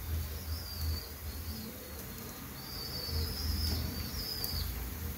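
Small birds chirping in thin, high, wavering calls about half a second in and again for about two seconds past the middle, over a low steady hum.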